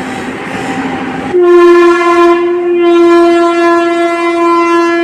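A train's horn blowing one long, steady, loud blast that starts suddenly about a second and a half in, over the noise of the approaching train.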